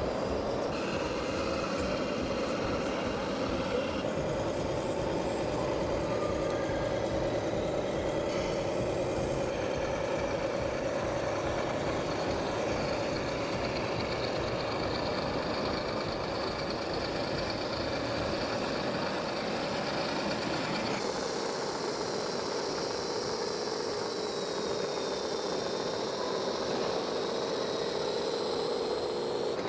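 Remote-control toy tractor running with a steady mechanical whir. About two-thirds of the way through the pitch drops slightly and a high whine comes in, then slowly falls.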